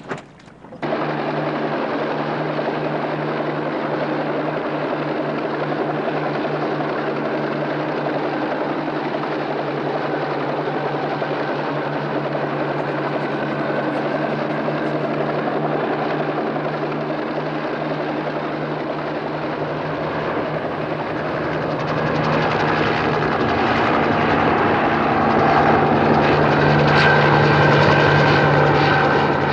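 Helicopter running steadily overhead, its rotor and engine cutting in suddenly about a second in and growing louder over the last several seconds as it draws nearer.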